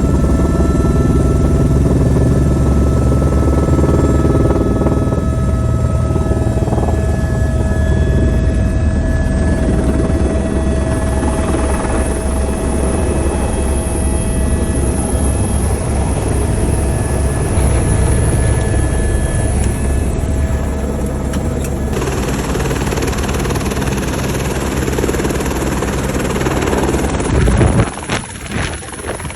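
Helicopter running close by: a loud, steady low rotor rumble under steady high engine whine tones. The sound cuts off suddenly near the end, leaving brief knocks and wind-like noise.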